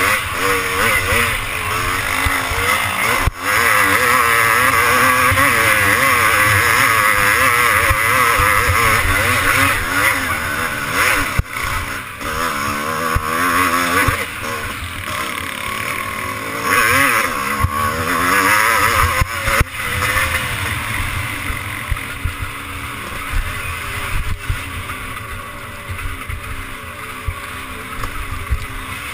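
Twinshock motocross motorcycle engine racing, its revs rising and dropping back over and over as the throttle is worked, with wind rushing over the microphone. A few sharp knocks cut through it.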